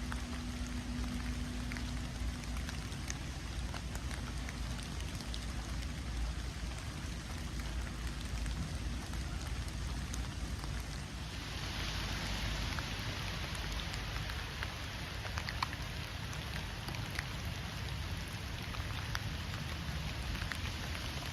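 Steady rain falling, with many small drop ticks over an even hiss and a low rumble underneath. About halfway through, a brighter hiss swells in and holds, as the rain comes down harder.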